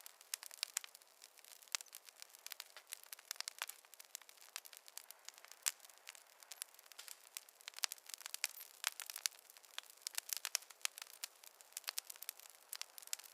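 Wood fire crackling in a fireplace: a dense, irregular run of sharp pops and snaps, some louder than the rest.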